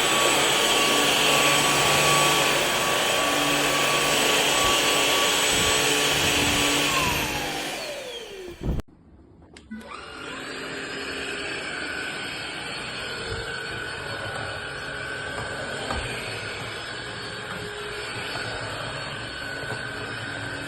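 Cordless stick vacuum motor running with a steady high whine, then spinning down about eight seconds in, ending with a knock. About a second later it starts again, whining up in pitch, and runs steadily but more quietly.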